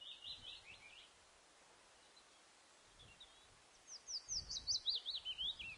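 Faint bird chirping: a short burst of chirps at the start, then near the end a quick run of chirps that falls in pitch.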